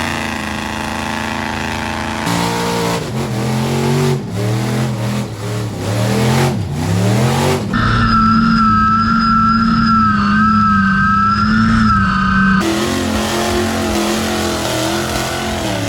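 Off-road truck engines revving, the pitch rising and falling through several throttle pulls, then an engine held steady at high revs for about four seconds. The sound changes suddenly twice, about eight and twelve seconds in.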